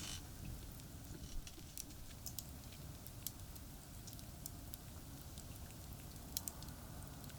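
Wood campfire crackling: sparse, irregular small pops and ticks, over a steady low rumble of distant expressway traffic.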